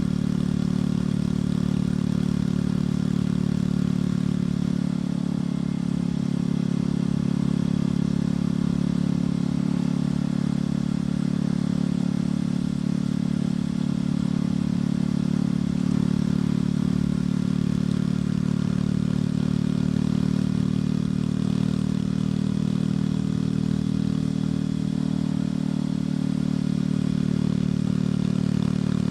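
Motorcycle engine and exhaust running at a steady, unchanging pitch.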